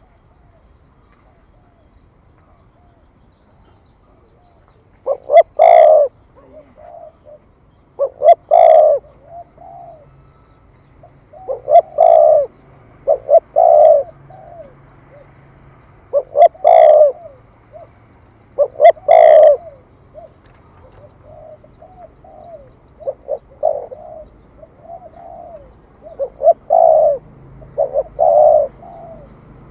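Spotted dove cooing in the urging 'thúc gù' style. A few seconds in, loud low coos come in pairs several seconds apart, followed near the end by a quicker run of shorter, softer coos.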